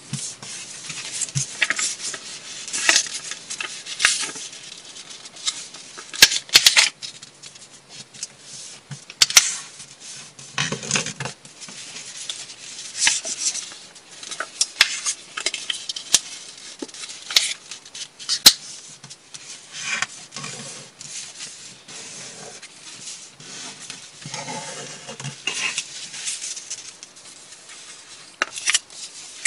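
Irregular sharp clicks, taps and brief rustling at uneven intervals, with no steady sound underneath.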